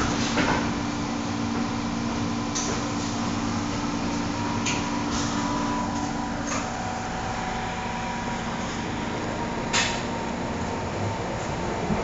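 Inside a first-generation MTR M-Train carriage: steady train noise with a low hum that fades about halfway through, broken by several sharp clicks and knocks.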